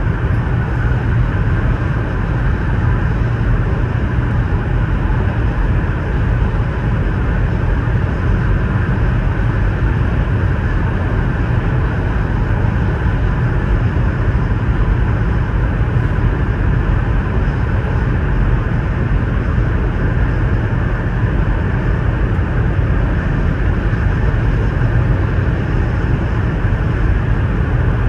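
Steady rumble and rush of a Chinese high-speed train running at about 348 km/h, heard from inside the passenger cabin.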